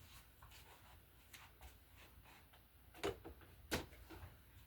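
Faint handling of craft materials on a table: a few soft clicks, then two light knocks about three seconds in and again under a second later.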